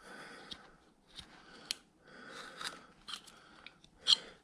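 Hand carving knife slicing into wood in several short cutting strokes, each with a sharp click, the loudest near the end.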